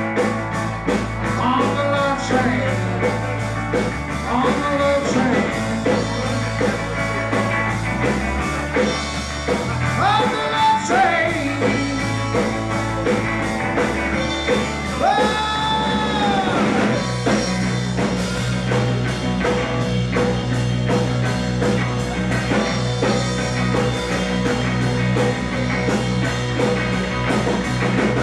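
Live rock band playing an instrumental break with a steady beat and bass line. A lead line plays notes that bend up and fall back, mostly in the first half.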